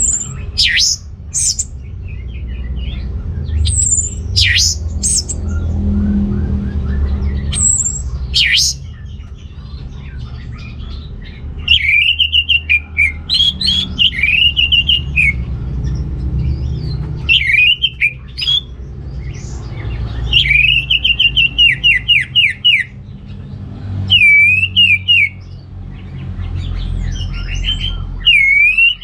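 Orange-headed thrush singing a loud, varied song. High thin whistles and steep sweeps come first, then from about twelve seconds in repeated fast phrases with quick trills, over a steady low rumble.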